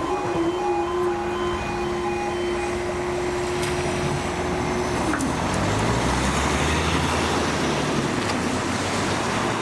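Level crossing alarm sounding in alternating two-tone pulses as the barriers rise, stopping about two and a half seconds in, over a steady hum that cuts out about five seconds in. Road vehicles' engines then pull away across the crossing.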